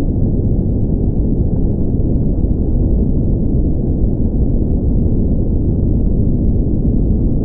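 A steady, loud low rumble with no clear pitch.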